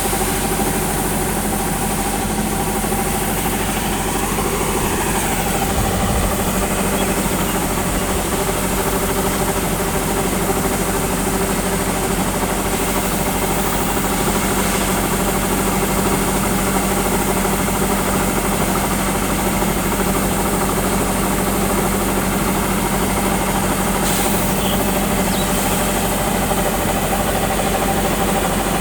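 Rice combine harvester's diesel engine running steadily with an even, many-pitched hum. About four seconds in, a whine briefly glides up and down.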